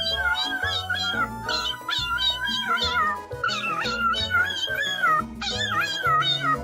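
Pet parrot making a run of wavering, meow-like calls over background music with a stepping bass line.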